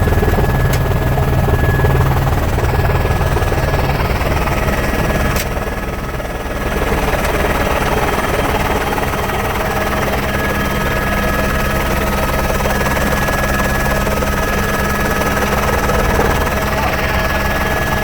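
Helicopter in flight: steady engine and rotor noise with a thin high whine over it, briefly dropping away about five and a half seconds in.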